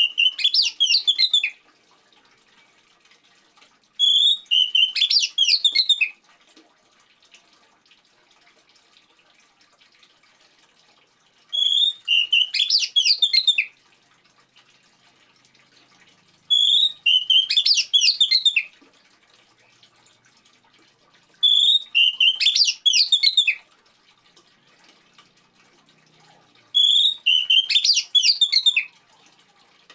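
Oriental magpie-robin song: six short, near-identical whistled and warbling phrases of about two seconds each, repeating every four to six seconds. A faint steady trickle of water runs underneath.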